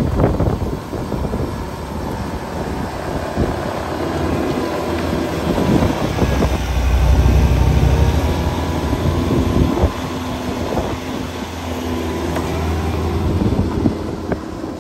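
An engine running steadily under a rush of wind on the microphone, swelling louder and deeper for a few seconds around the middle.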